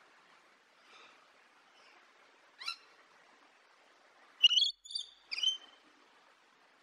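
Wild bird calling: a faint call about a second in, a sharp high call a moment later, then a loud run of three quick high-pitched calls over a faint hiss.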